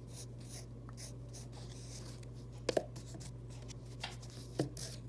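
Pencil scratching on paper in short, repeated strokes as a drawing is sketched, with a couple of light knocks against the paper, over a steady low hum.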